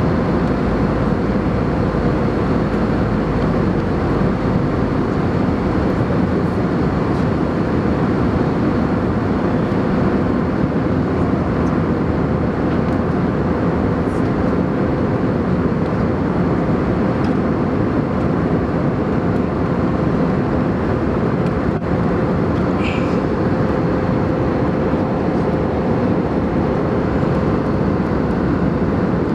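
Airbus A320 cabin noise at cruise: a steady rush of airflow and engine drone with a faint constant hum running through it.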